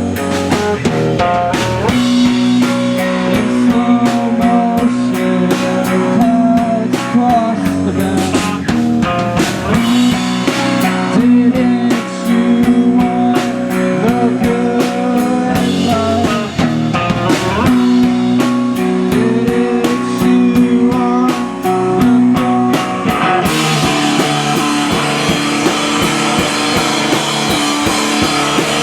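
Live rock band playing an instrumental passage: electric guitars over a drum kit. Near the end the music grows denser, with a heavier wash of cymbals.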